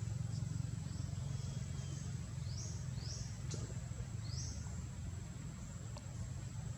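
Outdoor ambience: a steady low rumble, with three short high chirps partway through, two close together and then one more a second or so later, and a single click.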